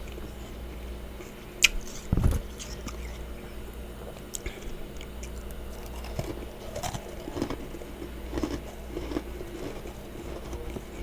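A person biting into and chewing mouthfuls of freezer frost, with a sharp crunch near two seconds in and a run of smaller crunches later on. A steady low hum runs underneath.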